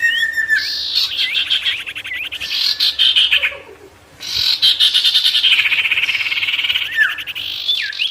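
A sirtu songbird singing loudly in two long, rapid rolling trills separated by a short pause, with slurred whistled notes mixed in.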